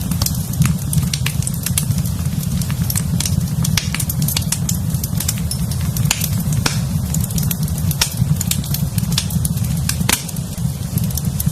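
Fire burning in a fireplace, crackling with many sharp pops and snaps over a steady low rumble.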